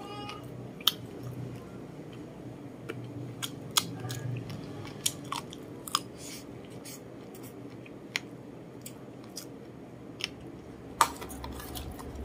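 Close-up chewing of rice and braised chicken, with about a dozen scattered sharp clicks from the metal spoon against the plate and teeth, the loudest near the end.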